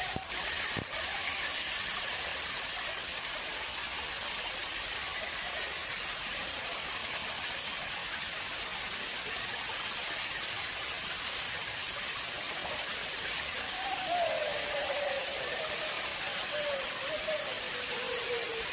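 Water flowing steadily into an artificial pond, an even rushing splash. A brief knock about a second in, and near the end a faint tone that slides slowly down in pitch.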